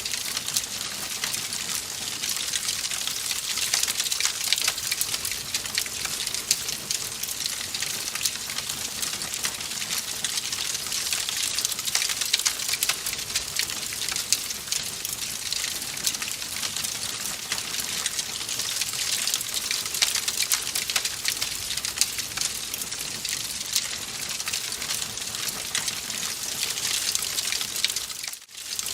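Wood fire in a fireplace crackling steadily: a constant hiss dotted with many quick snaps and pops. The sound dips briefly just before the end.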